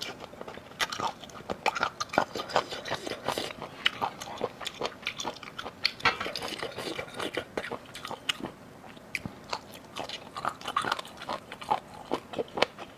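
A person eating seafood close to the microphone: wet chewing, biting and lip-smacking clicks at an uneven pace.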